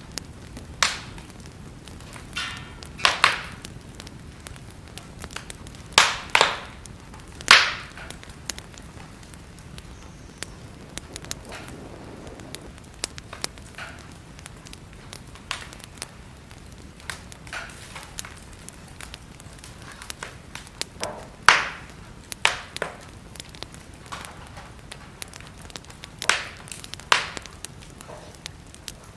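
Wood fire burning in a fireplace: irregular sharp crackles and pops over a steady soft hiss, with the loudest snaps scattered a few seconds apart.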